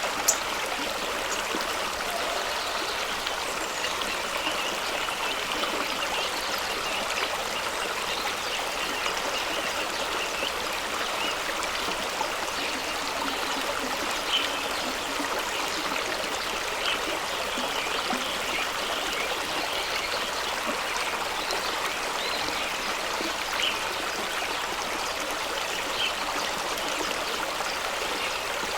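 Fast-running stream flowing over rocks: a steady rush of water with a few brief splashes now and then.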